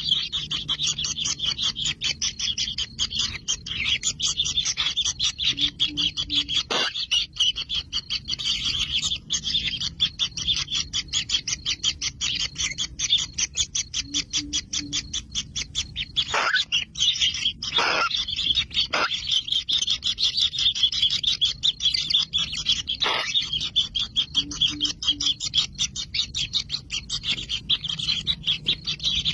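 Kingfisher nestlings begging, a continuous rapid, buzzy chirping, with a few short sounds falling steeply in pitch.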